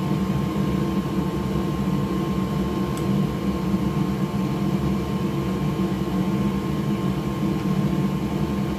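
Steady whirring hum of an electric fan or blower running at an even speed, with a steady whine in it. A faint tick about three seconds in.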